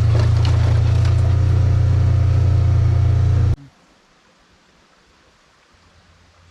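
A loud, steady low hum with light crackling over it, cutting off suddenly about three and a half seconds in, leaving quiet outdoor background.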